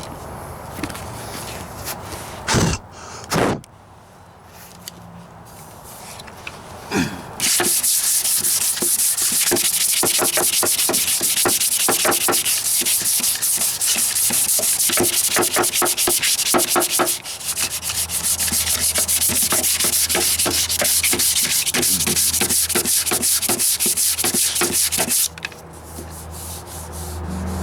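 Sandpaper on a hand sanding block scrubbed back and forth over body filler on a steel rocker panel, in quick repeated strokes. It starts after two short knocks, a quarter of the way in, pauses briefly past halfway, and stops shortly before the end.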